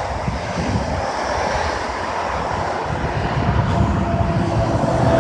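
Thunderstorm: a low rolling rumble of distant thunder under steady wind noise.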